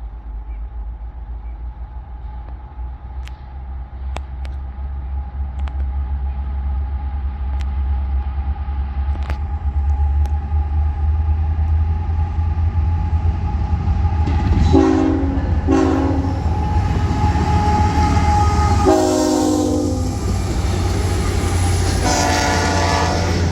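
Freight train led by an ET44AC diesel locomotive approaching, its low engine rumble growing steadily louder. About fifteen seconds in the horn sounds two short blasts, then a longer blast, then another near the end.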